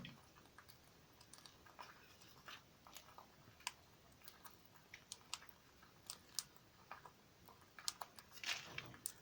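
Faint, irregular crunching clicks of parrots' beaks cracking and chewing their food, several short clicks a second.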